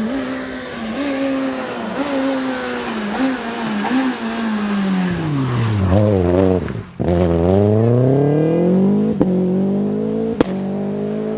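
Renault Clio Williams A7 rally car's 2.0-litre four-cylinder engine at full throttle, its revs rising and dropping in short steps through gear changes, then falling sharply and climbing back up hard about halfway through. Two sharp cracks near the end.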